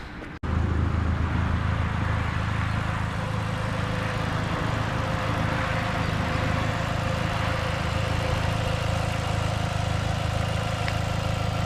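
Ford Fiesta ST's 2-litre four-cylinder engine idling steadily, cutting in abruptly about half a second in.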